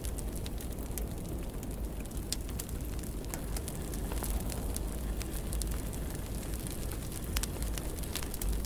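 Fire burning in a fireplace: frequent sharp crackles and pops over a steady low rumble.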